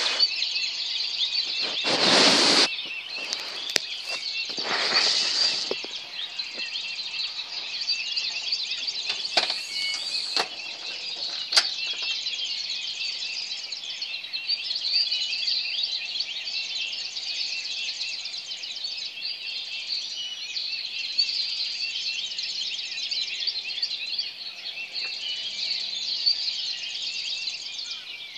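A dense, unbroken high-pitched chorus of many overlapping chirps and trills before dawn. Three brief swells of broad whooshing noise pass over it in the first few seconds.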